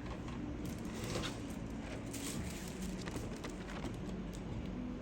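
Faint scattered clicks and light rustling from hands handling and opening a keycap set's packaging, over a low steady hum.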